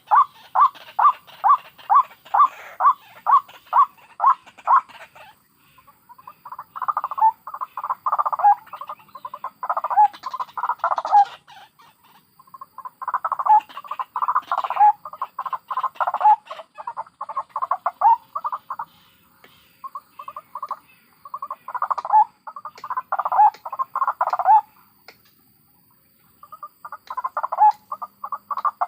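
White-breasted waterhens calling, adults and chicks together. A regular run of repeated notes at about three a second comes first, then bouts of dense, cackling calls broken by short pauses.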